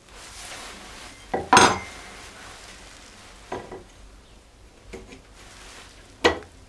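Small hard objects clacking and clinking as they are handled and set down: a loud double knock about a second and a half in, then single knocks about two, three and a half and five seconds later, with faint scraping between.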